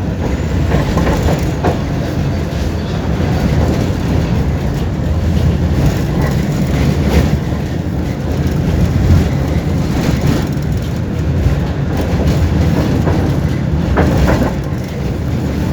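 Tram running along the track: a steady low rumble of wheels on rail, with a few sharp clicks and knocks, one about a second in and another near the end.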